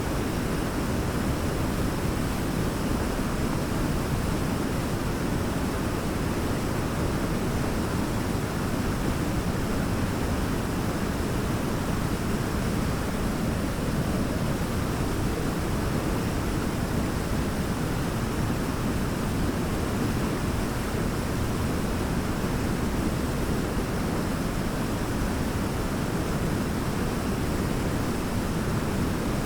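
Large waterfall: a steady, full rush of falling water, heaviest in the low range, with no change in level.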